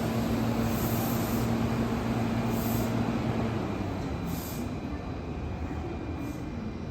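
Meitetsu electric train running at a station: a steady motor hum that fades out about three and a half seconds in, while the running noise carries on a little quieter.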